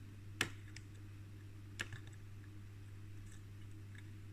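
Faint sharp clicks of a soldering iron and wire tapping against a circuit board while a speaker wire is soldered on: one about half a second in, another near two seconds, with a few softer ticks, over a steady low hum.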